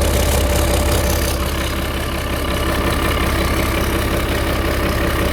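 Turbocharged starboard boat engine idling steadily with a rapid ticking puff running through it, the sound of an exhaust leak between the cylinder head and the turbo.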